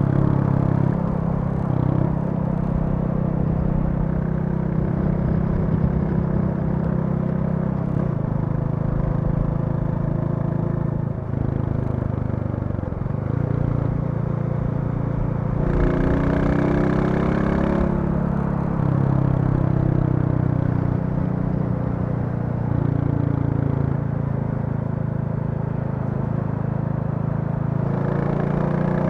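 Royal Enfield Classic 350's single-cylinder engine running as the motorcycle is ridden along, its note steady with a brief dip about eleven seconds in and a brighter, harder-pulling spell a few seconds later.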